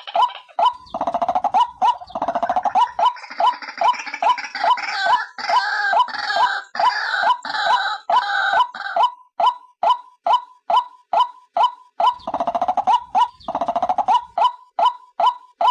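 White-breasted waterhen calling: a steady, repeated short note at about two to three a second, overlaid by a denser chorus of harsher croaking calls from about a second in until near the middle, and again briefly near the end.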